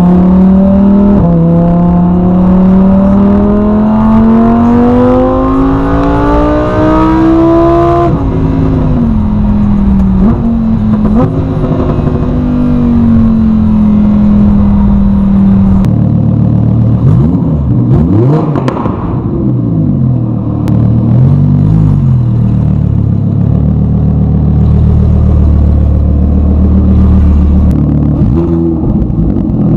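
Lamborghini Huracán's V10 with a Soul Performance race exhaust, revving up steadily for about eight seconds, then dropping back and running at a steady pitch. From about halfway through, the revs rise and fall several times in quick succession before settling into a steady run.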